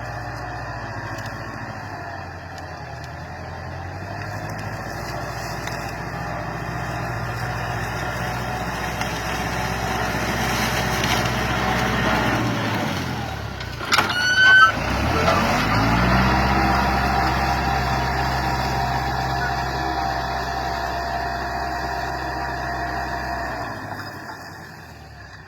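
Farm tractor's diesel engine running steadily. About halfway through its speed sags, a brief loud squeal cuts in, and the engine picks back up and runs on evenly.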